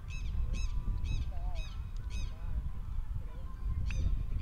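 Birds calling: a run of short, shrill calls that rise and fall, about two a second, pausing midway and starting again near the end, over a steady low rumble.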